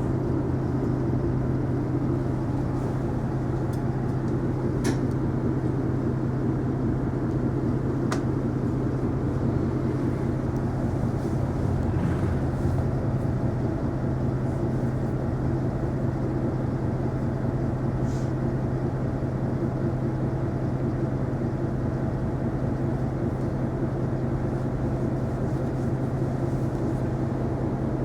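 Interior running sound of an Isuzu Erga non-step city bus under way: a steady engine hum over road noise. A few faint sharp rattles come around five and eight seconds in.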